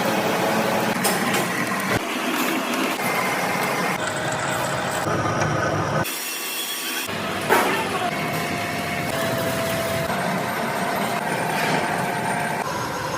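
Heavy factory machinery noise: a steady mechanical din with whining tones, changing abruptly several times, and one sharp knock about seven and a half seconds in.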